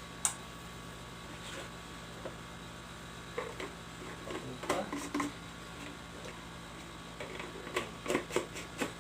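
Scattered light clicks and taps of small objects being handled, in two clusters about three to five seconds in and again near the end, over a faint steady hum.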